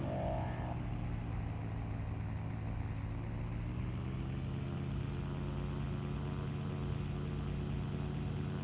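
Airliner engines droning steadily, a continuous hum with a low, even pitch.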